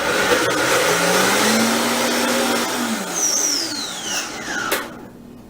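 Countertop blender running, puréeing silken tofu with lemon juice, oil and seasonings into a creamy dressing. About three seconds in the motor is switched off and spins down with a falling whine, ending in a sharp knock.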